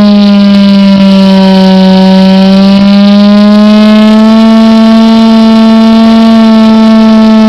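Loud, steady high-pitched buzz of an RC Extra 300S model airplane's .46 two-stroke glow engine running at high speed in flight. The pitch sags a little and then climbs back.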